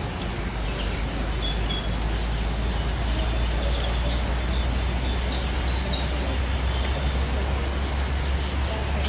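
Birds chirping in short, high notes repeated every second or so, over a steady high-pitched insect drone and a low rumble.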